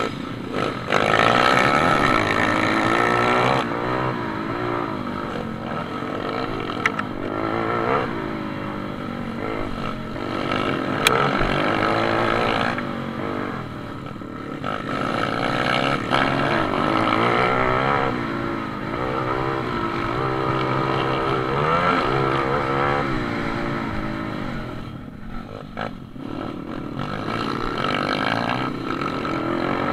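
Pit bike engines revving hard while racing, the pitch climbing again and again and dropping away between climbs as the bikes accelerate, change gear and slow for corners.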